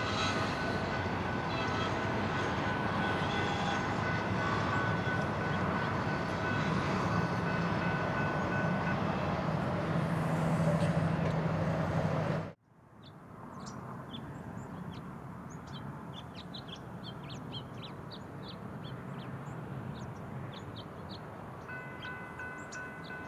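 A train passing over a grade crossing, with steady rolling noise and a steady ringing tone over it. It cuts off abruptly about twelve seconds in. Quieter ambience follows, with short high bird chirps, and steady ringing tones start again near the end.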